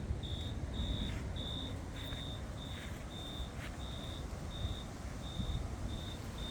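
A cricket chirping steadily, short high chirps repeating a little under twice a second, over the low rumble of wind on the microphone.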